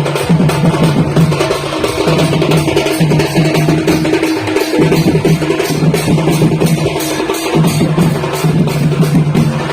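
Music with a driving drum beat and a heavy bass line, played through a large DJ sound system; the bass drops out briefly a few times and comes back.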